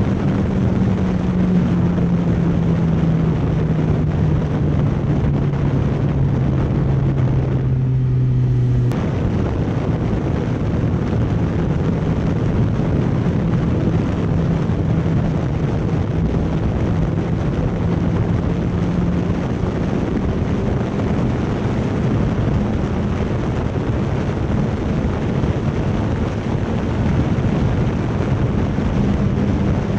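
Motorcycle engine running on the move, with heavy wind rush over the microphone. The engine note sinks slowly for the first few seconds, breaks off briefly about a third of the way in, then holds steady a little higher.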